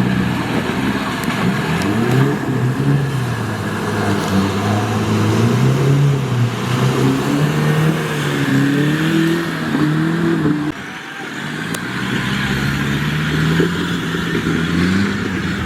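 Off-road 4x4's engine revving up and down under varying throttle. Its pitch rises and falls, drops away suddenly about eleven seconds in, then builds again.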